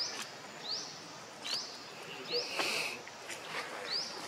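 A bird repeating a short, high, rising chirp about once every three-quarters of a second, with a few brief clicks and a short rustle just past the middle.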